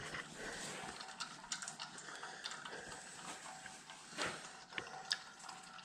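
Engine oil trickling from the mower's drain hole into a drain pan, faint and steady, with a few light scattered clicks.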